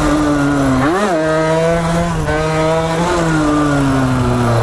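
Small two-stroke dirt bike engine, a 49cc built up to 80cc, running hard with the throttle blipped twice, about a second in and about three seconds in, the pitch jumping up each time and then sagging as the revs fall; the rider is trying to find its power band.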